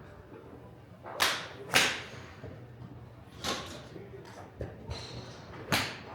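Golf clubs striking balls: four sharp cracks, the first two about half a second apart, each with a short ringing tail.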